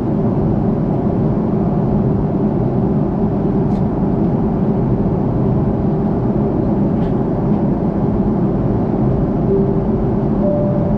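Steady in-flight cabin noise of an Airbus A330-300 airliner: a constant low rumble of engines and airflow, with two faint ticks in the middle and a few brief faint tones near the end.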